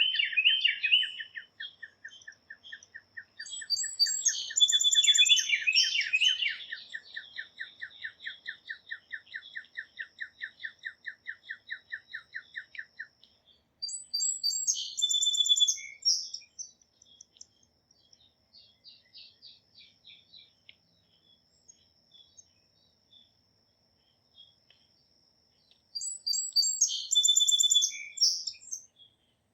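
Songbirds outdoors: one bird repeats a single call note about four times a second, stopping about thirteen seconds in, while another sings three short, complex high songs, the first about four seconds in, one in the middle and one near the end. A faint steady high tone sits beneath.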